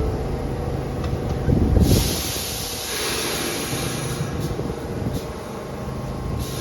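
New York City subway train in a station: a low rumble, then about two seconds in a sudden loud hiss of released air that fades over a couple of seconds, followed by a few short puffs of air.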